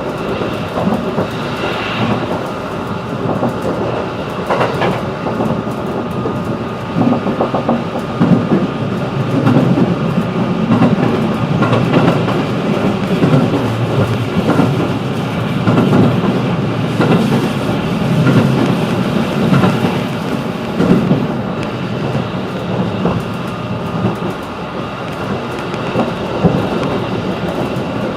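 Running noise of a JR 211 series electric train, heard inside the passenger car: steady wheel-on-rail rumble with a few scattered knocks from the track.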